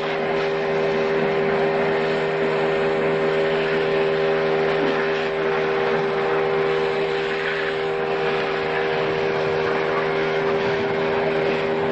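An engine running steadily at constant speed, an even, unchanging drone.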